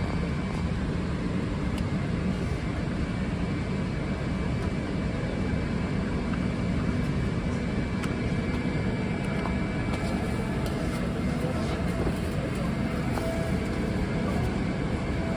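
Steady low rumble and air hiss of a Boeing 777-300ER's passenger cabin, with a few faint clicks.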